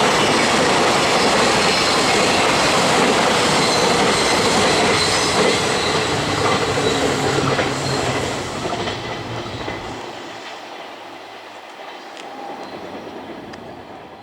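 Freight train passing at speed: a steady loud rush of wagons and wheels on the rails. About halfway through it fades away as the end of the train goes by.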